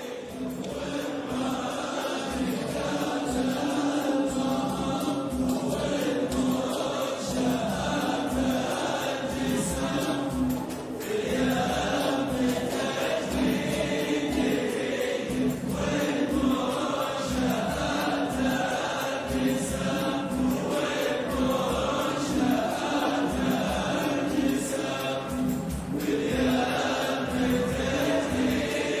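Choral music: a choir singing over a steady low beat.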